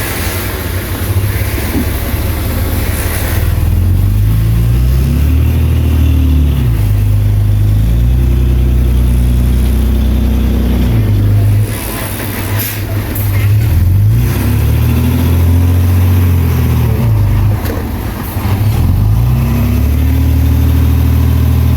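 Heavy diesel engine of earthmoving machinery running under load. Its pitch rises and falls several times as the throttle is opened and eased off, with a dip about twelve seconds in and another near eighteen seconds.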